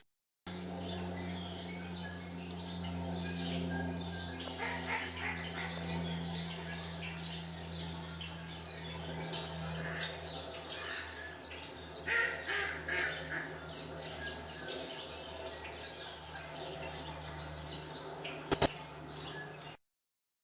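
Small birds chirping and calling in scattered short notes, played from a bird video through a TV speaker, over a steady low hum. A single sharp click sounds near the end, and the sound drops out briefly at the very start and shortly before the end.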